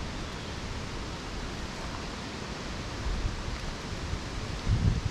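Strong wind blowing steadily, with gusts buffeting the microphone as a low rumble that grows stronger in the last couple of seconds.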